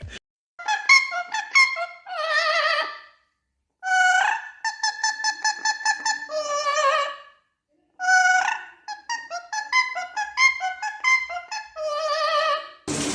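High operatic soprano singing three phrases, each a run of quick high notes ending on a held note with vibrato, with short silences between them.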